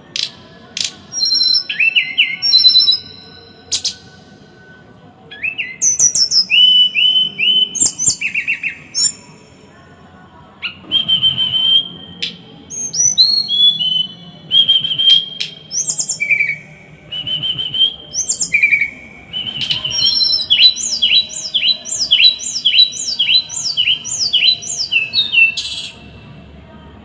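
A small songbird singing a dense run of sharp, harsh whistled phrases with short pauses between them. Toward the end it breaks into a fast string of repeated downward-slurred notes, about two a second.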